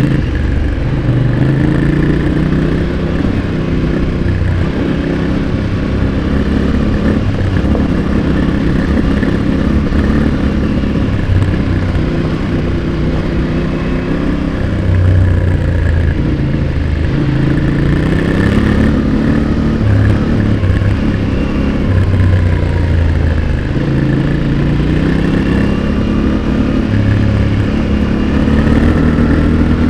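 Yamaha Ténéré 700's 689 cc parallel-twin engine heard close at the exhaust, revving under hard riding, its pitch rising and dropping again and again as the throttle opens and closes.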